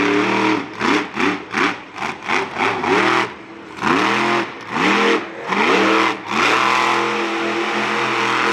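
Monster truck engine revving in a rapid series of short blips, each one rising and falling in pitch, then held at a steady high speed for the last couple of seconds.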